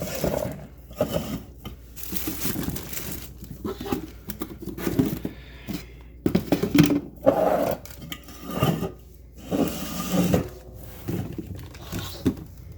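Food containers, jars and bags being handled while a refrigerator is cleared out: irregular knocks, clatters and crinkling.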